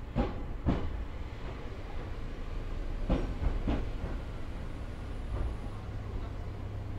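Electric train pulling out of a station, its wheels clacking over rail joints in two pairs of clacks about three seconds apart over a steady low running rumble, heard from inside the cab.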